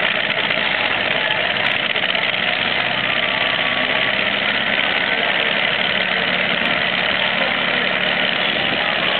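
A pulling truck's engine running loud and steady, its pitch holding level with no revving up or down.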